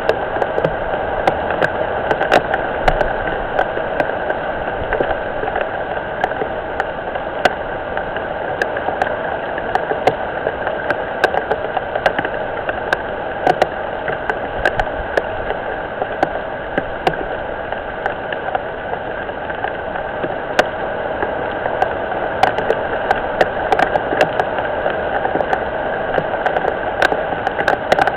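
Rain falling on a pond: a steady watery hiss with many sharp drip ticks scattered through it.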